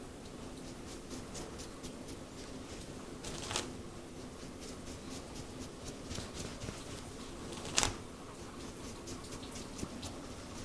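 Steady patter of rain with close-up scratching and rustling of hands working through hair and scalp, and two louder brief swishes, one about three and a half seconds in and one near eight seconds.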